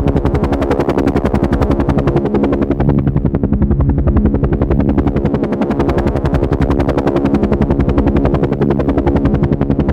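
Helicopter rotor chopping steadily in a rapid, even beat of blade pulses, over a steady droning engine tone.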